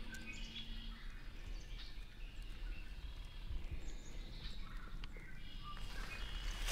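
Small birds chirping faintly and on and off over a steady low outdoor rumble. Near the end comes a louder, noisy rustle.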